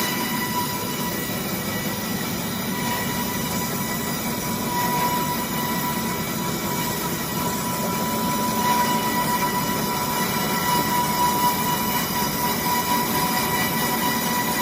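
Horizontal band sawmill running, a steady high-pitched whine from the blade over the machine's noise, a little louder from about halfway in.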